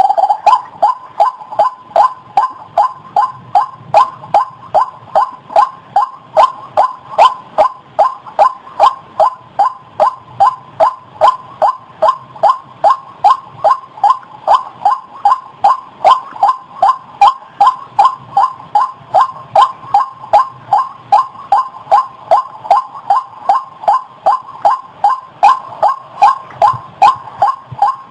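White-breasted waterhen (ruak-ruak) calling: a long, steady series of identical short notes repeated about two and a half times a second without a break.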